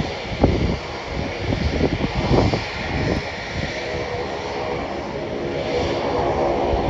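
Jet engine noise from a Boeing 777 that has just landed, a steady whooshing hum with a faint held tone growing clearer in the second half. Wind buffets the phone microphone in gusts.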